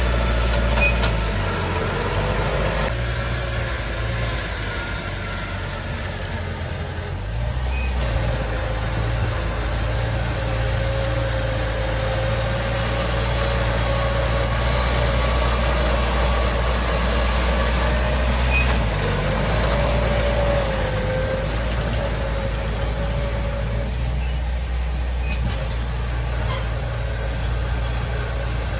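Heavy diesel engine of earthmoving machinery running steadily under varying load, with a thin whine above it that wavers up and down. The engine note shifts a few times, dropping a little around a quarter of the way in and coming back up soon after.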